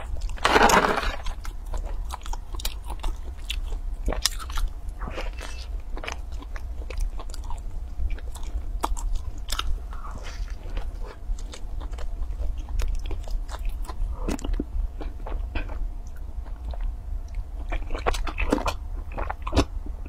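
Close-up eating of a flaky braided cheese pastry: crisp bites and crunches, then chewing, with a louder crackling burst about a second in as the pastry is torn apart.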